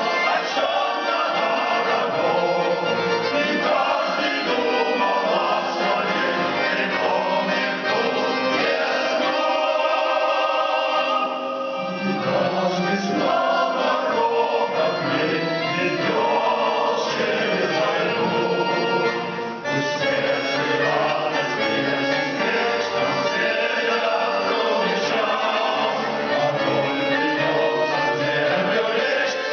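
Male vocal ensemble singing a slow song in harmony, with short breaks between phrases.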